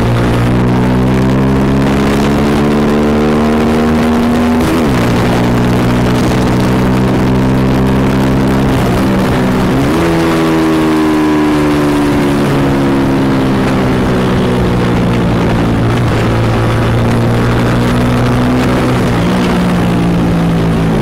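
Motorcycle engine running under way, its pitch climbing under throttle and dropping sharply at gear changes about five seconds in and near the end, with a quick rise about ten seconds in and a slow fall as it eases off. Wind and road hiss run beneath it.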